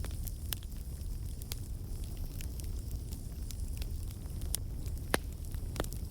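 Burning logs in a fireplace crackling, with irregular sharp pops over a steady low rumble and hiss; the loudest pops come around four and a half and five seconds in.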